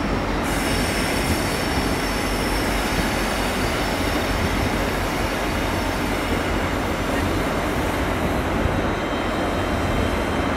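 GWR High Speed Train with Class 43 diesel power cars moving along the platform, a steady rumble with a faint high wheel squeal that fades out near the end.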